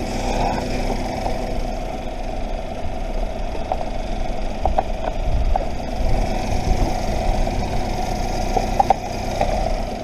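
A vehicle engine idling steadily with a low rumble, and a few faint clicks.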